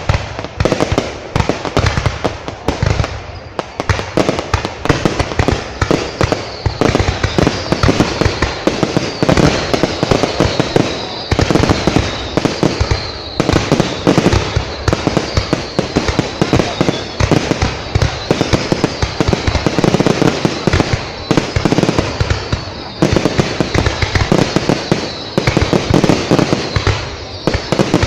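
Fireworks display: a dense, continuous barrage of bangs and crackles with only brief lulls. From about six seconds in, a thin high whistle runs through it.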